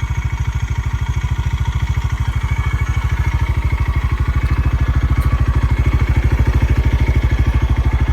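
Bighorn Explorer UTV engine running with a steady, rapid, even pulse, getting somewhat louder from about two seconds in.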